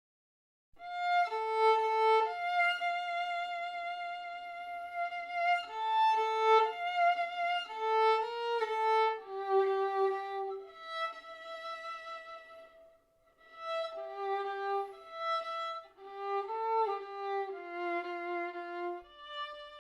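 Slow solo violin melody of long held notes, starting about a second in, with a brief pause about two-thirds of the way through.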